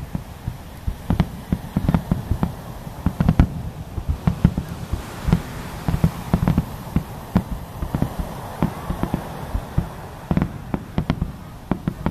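Aerial fireworks shells bursting in a dense, irregular barrage: booms and sharp bangs several a second, with no let-up.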